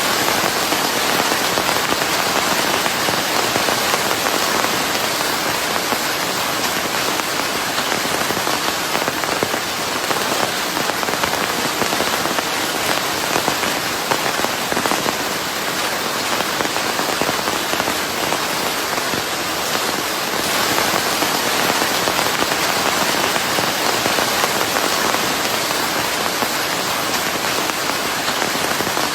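Steady rain with white noise mixed in: a dense, even patter and hiss that holds at the same level throughout.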